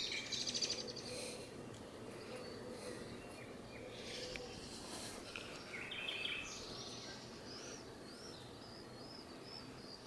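Small songbirds chirping outdoors, with a quick run of short repeated arched notes in the second half, over a faint steady background and a faint low hum from the honeybee colony in the hive.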